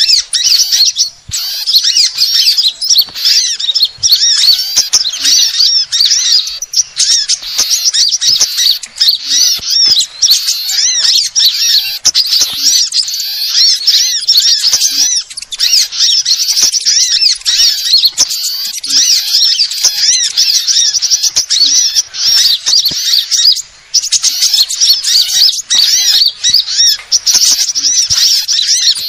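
Dense, continuous chorus of rapid, high-pitched sunbird chirps and trills, a bird-lure recording for trapping small birds, with a brief gap about 24 seconds in.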